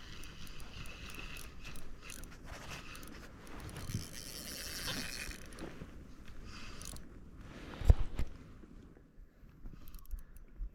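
Shimano Ultegra 2000 spinning reel being cranked, its gears whirring steadily as line is retrieved, with handling rattles and one sharp knock about eight seconds in.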